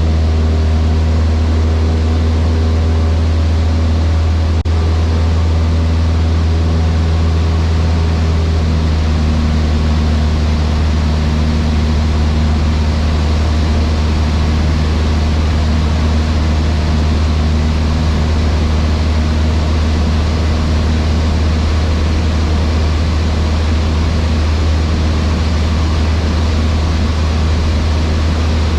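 Cessna 152's four-cylinder Lycoming engine and propeller running steadily, heard from inside the cockpit as a loud, even drone. There is a faint click about four and a half seconds in.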